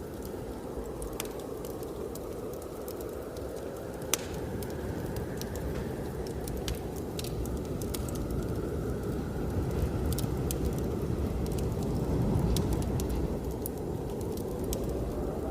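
Wood fire crackling with scattered sharp pops, one louder pop about four seconds in, over steady blizzard wind with a faint whistling tone. The wind swells louder past the middle.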